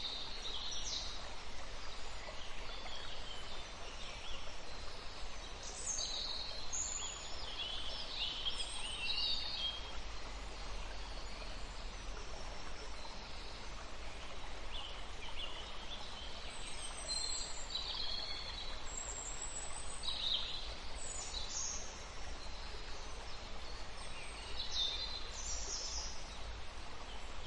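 Birds giving short, high calls in scattered clusters over a steady outdoor noise haze.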